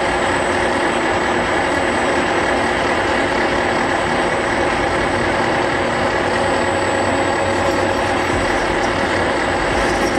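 Metal lathe running steadily, its motor and gearing giving a constant mechanical whine with a thin high whistle on top; it cuts off suddenly at the end.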